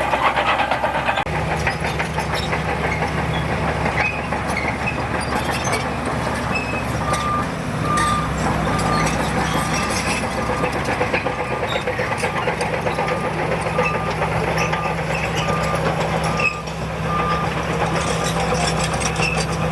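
Heavy diesel earthmoving machinery running steadily, with a reversing alarm beeping at an even pace, a little more than once a second, from about seven seconds in until near the end: a machine backing up.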